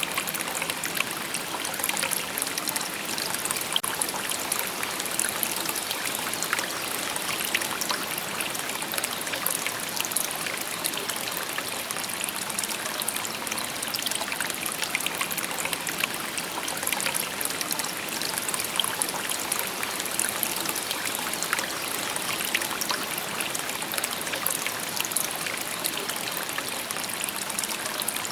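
Shallow river babbling over stones: a steady, even rush of water with fine trickling and splashing detail.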